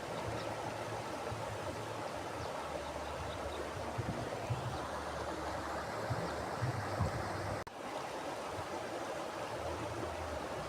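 Mountain river flowing over rocks: a steady rush of water, with a few deeper surges in the middle. The sound drops out for an instant about three-quarters of the way through.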